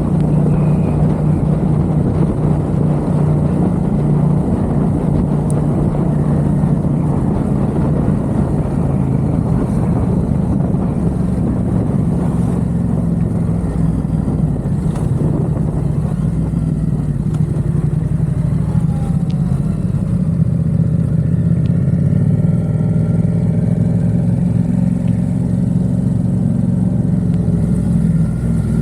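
Yamaha XSR700's parallel-twin engine through a Mivv aftermarket exhaust, running at a fairly steady note while riding. A rushing noise over the engine eases after about twenty seconds.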